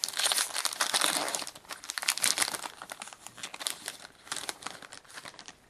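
Foil trading-card pack wrapper crinkling as it is torn open and handled, loudest in the first few seconds and then sparser crackles.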